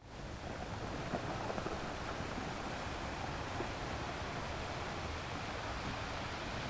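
Steady rush of wind and sea from a moving cruise ship, with wind rumbling on the microphone; it fades in at the very start.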